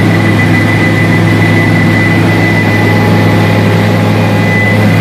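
Helicopter's turbine engine and rotor running steadily, heard from inside the cabin: a loud, even drone with a thin, steady high whine over it.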